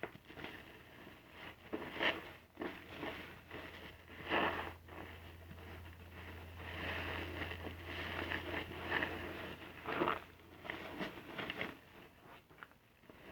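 Soapy car-wash sponge being squeezed and worked into a lather, giving irregular wet squishing, with louder squelches about two, four and ten seconds in.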